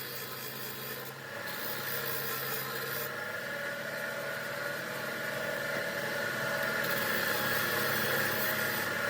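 Electric motor of a power abrasive tool running steadily while rust is ground off a steel pipe wrench. The scraping contact comes and goes, easing off for a few seconds in the middle.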